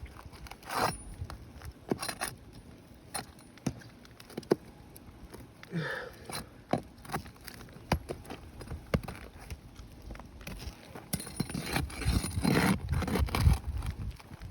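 Metal flat bar prying and scraping under old, brittle asphalt shingles: scattered sharp clicks and short scrapes, with a denser stretch of scraping and crackling near the end.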